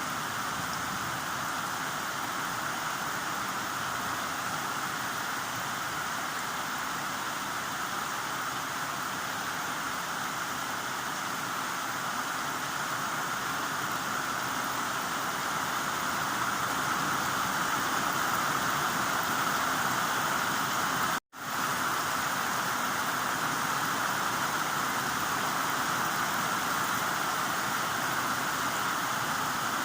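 Steady heavy rain: an even, dense hiss. About two-thirds of the way through it cuts out completely for a split second, then carries on.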